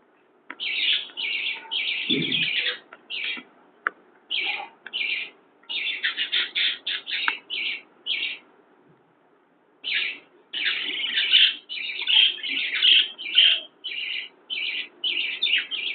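Parrots chirping in quick, high-pitched runs of short notes, with two pauses of about a second or more.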